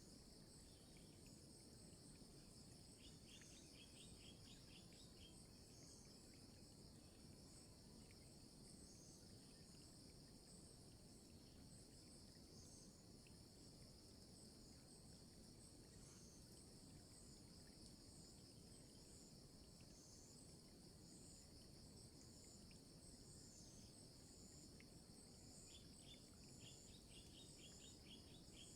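Faint, steady high-pitched chorus of insects trilling, with two short bursts of quick chirps, one a few seconds in and one near the end.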